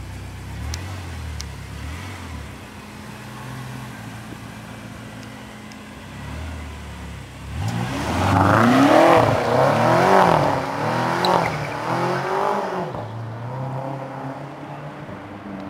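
BMW F10 M5's twin-turbo V8 with a Supersprint exhaust idling steadily, then revved up and down five or six times in quick blips about halfway through, the loudest near the middle, before settling back toward idle.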